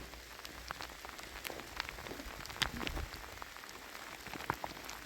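Steady rain falling, with many scattered sharp drops ticking on nearby surfaces.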